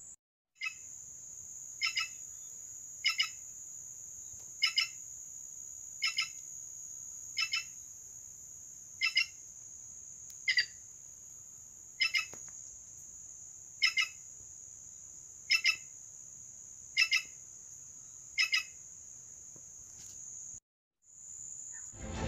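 A bird repeating a short doubled call about every second and a half, over a steady high-pitched drone of insects.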